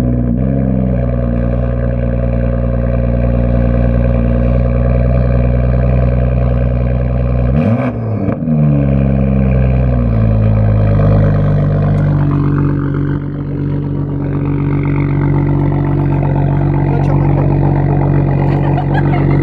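Car engine running under way at a steady pitch. About eight seconds in it dips and rises sharply, like a gear change, then the pitch slides gradually lower and settles.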